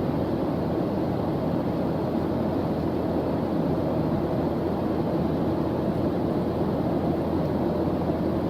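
Steady noise played as a study background, an even, unchanging hiss with most of its weight in the low, deep range.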